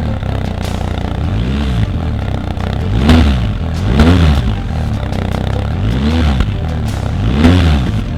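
BMW R1250RS boxer twin engine blipped from idle through a Fuel ceramic black oval midi Diablo aftermarket exhaust with its baffle fitted. The revs rise and fall back about five times, the loudest blips a little after three and four seconds in and near the end.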